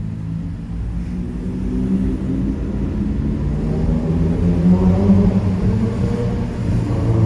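Straight-piped Mazda 3 Skyactiv 2.0 four-cylinder engine and exhaust at low speed under light throttle, a loud, steady drone that gradually grows louder and rises a little in pitch through the middle.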